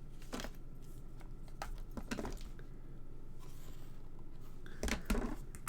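Light clicks, taps and paper rustling as card and thin metal cutting dies are handled and laid in place. The loudest cluster of clicks and rustles comes near the end, with a soft sliding rustle just before it.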